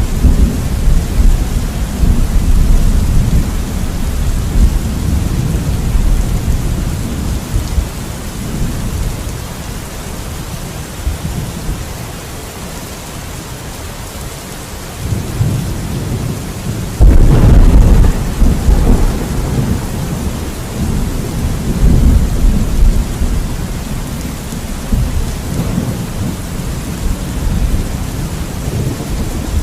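Thunderstorm: steady rain hissing under rolling thunder. A rumble dies away over the first dozen seconds, then a sharp, loud thunderclap breaks about 17 s in and rumbles on, slowly fading.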